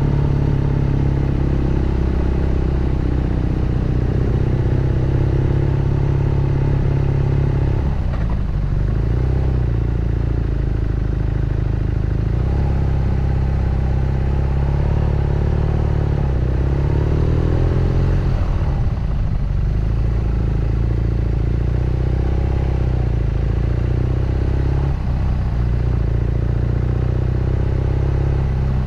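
BMW R nineT Scrambler's 1170 cc boxer twin running under way, its exhaust note steady with the throttle held, then breaking off and picking up at a new pitch three or four times as the rider rolls off and changes gear.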